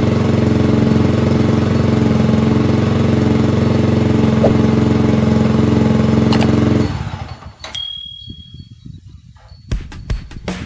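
Yamaha R15 motocross conversion's single-cylinder engine running steadily at an even pitch, then cutting off about seven seconds in. Near the end, music with a regular beat starts.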